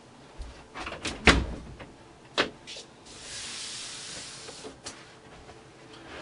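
A few sharp knocks and clicks on a wooden interior door, then a soft rubbing hiss lasting about two seconds as a hand brushes across the door's textured glass panel, with one more click near the end.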